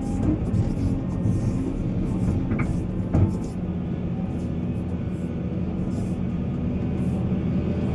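Heavy diesel earth-moving machinery running steadily under load, with a short knock about three seconds in.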